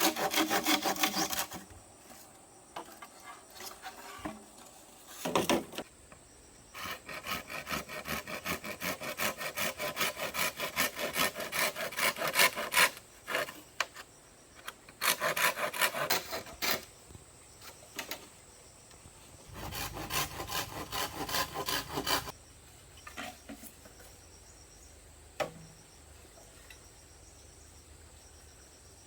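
A hand tool working bamboo: rapid back-and-forth rasping strokes, as in sawing or scraping a bamboo pole, in several bursts separated by pauses, with the last burst ending a little past the middle.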